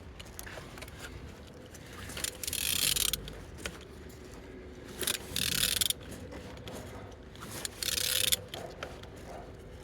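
A Vauxhall/Opel Z18XE 1.8-litre four-cylinder petrol engine being turned over by hand with a tool on the crankshaft, in three separate strokes of mechanical clicking and scraping. It turns freely, a sign that the engine is not seized.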